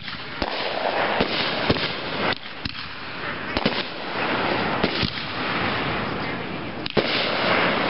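Aerial firework shells bursting overhead: a string of sharp bangs at irregular intervals, roughly one every half second to second, some close together in pairs.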